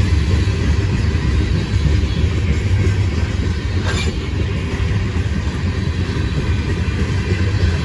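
CSX train rolling past: a loud, steady rumble, with one sharp click about four seconds in.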